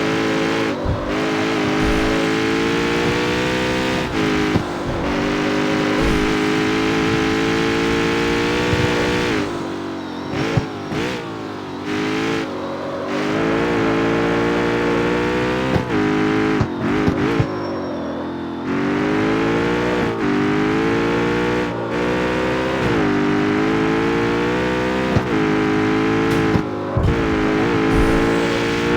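Jaguar F-Type's supercharged 5.0-litre V8 pulling hard through the gears: the engine note climbs steadily, then drops at each upshift. Between pulls come bursts of exhaust pops and crackles as the throttle closes.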